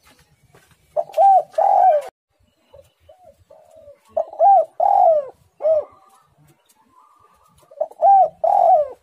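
Spotted dove cooing: three phrases of several low, arched coos each, beginning about a second in, about four seconds in and near the end, with a few soft notes between them.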